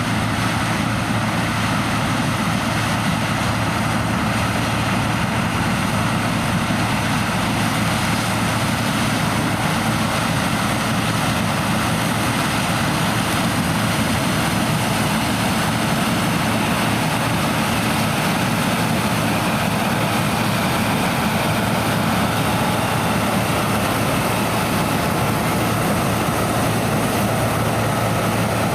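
Heavy farm machinery running steadily during corn harvest: the continuous diesel drone of a combine harvester and tractor, with a strong low hum.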